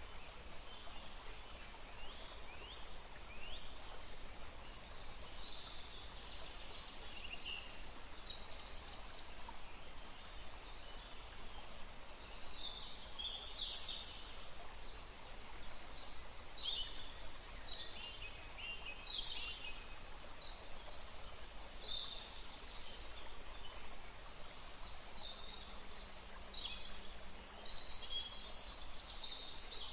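Several songbirds chirping and trilling in short high phrases throughout, over a steady background hiss.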